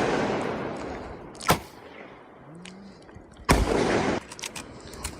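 Sharp bangs: a short crack about a second and a half in, then a louder bang about two seconds later whose rushing tail fades over most of a second.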